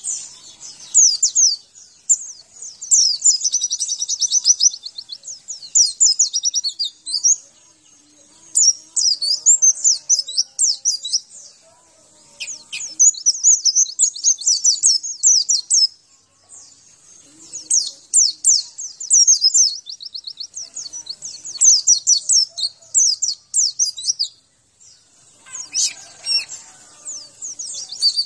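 White-eye (pleci) singing: long runs of rapid, high twittering notes in phrases a few seconds long, separated by short pauses.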